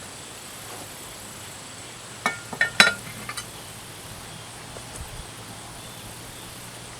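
A few sharp metallic clinks from a cast-iron Dutch oven and its lid, a little over two seconds in, with a short ring after each, over a steady low hiss.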